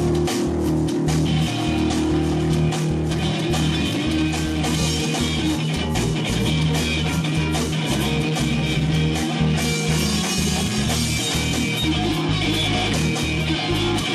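Rock music without vocals: distorted electric guitars playing over a drum kit.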